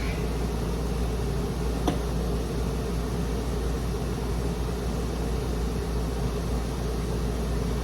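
Steady low rumbling drone, even and unchanging, with a single sharp click about two seconds in.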